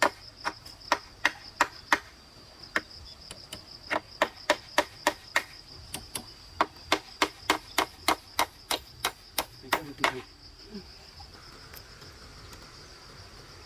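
Rapid chopping blows into wood, about three a second, that stop about ten seconds in. A steady high insect drone runs underneath.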